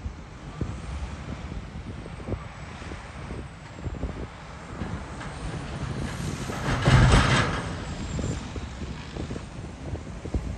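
Freight train rolling past, its wheels clicking irregularly over the rail joints under a steady rumble, with a louder rush of noise about seven seconds in.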